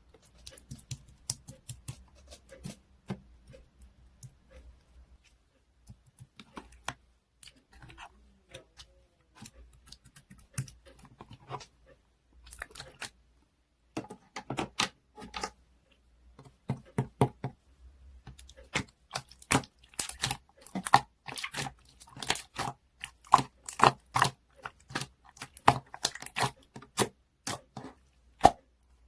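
Close-up handling of crinkly material, with short rustles, tears and small taps. Sparse at first, getting busier and louder in the second half.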